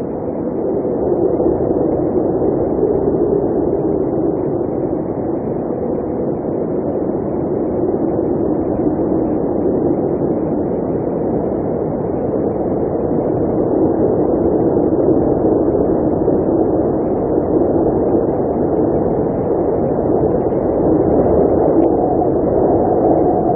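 Blizzard wind blowing steadily: a dense rushing noise with a low hollow tone that shifts slowly in pitch, growing a little louder in the second half.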